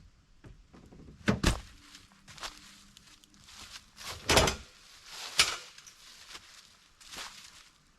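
A series of separate heavy thumps and bangs, like doors or metal panels being knocked. The loudest come about four and five seconds in.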